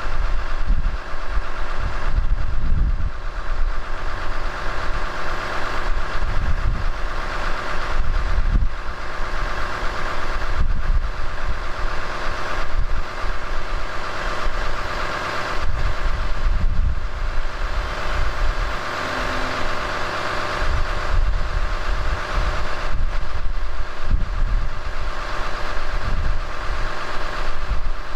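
Cummins 6.7-litre inline-six turbodiesel of a 2018 Ram 5500 idling steadily while still cold, after a start at 0°F with no block heater, only the preheat cycle.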